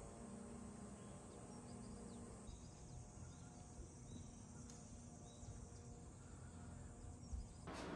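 Quiet background with a steady low hum and faint short bird chirps. A louder sudden rustle or knock starts just before the end.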